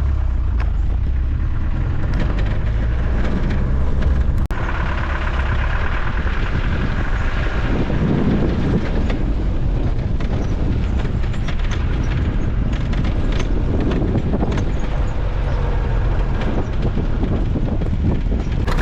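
A vehicle driving along a rough road: a steady low engine and road rumble with frequent short knocks and rattles. From about four and a half seconds in, a hissing tyre or road noise swells for a few seconds.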